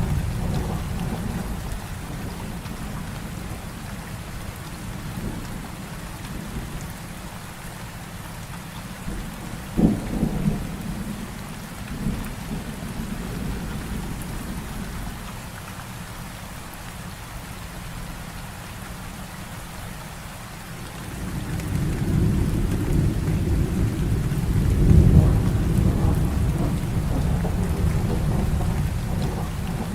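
Heavy rain falling steadily through a thunderstorm. A sharp thunderclap comes about a third of the way in, followed by a smaller one, and later a long low rumble of thunder swells up and slowly fades.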